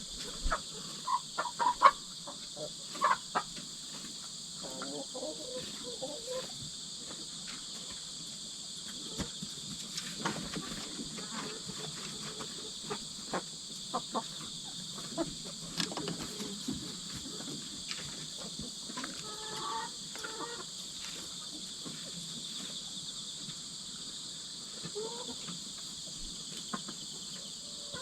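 Steady chorus of insects trilling, with hens giving short clucks and calls every so often and scattered sharp taps.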